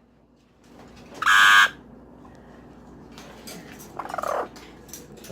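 Pet bird squawking: one loud, harsh squawk about a second in, then softer calls and a short falling call near the end.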